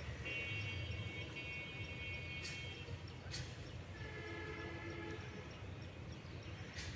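Two long horn-like tones over a steady low rumble: a higher one lasting about two and a half seconds, then a lower, shorter one a little past the middle.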